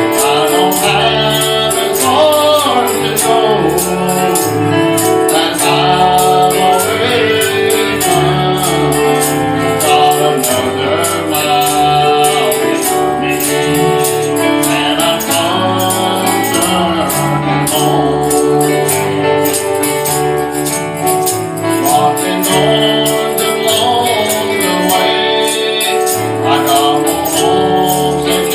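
Gospel worship music with singing, a bass line and a tambourine shaken in a steady beat.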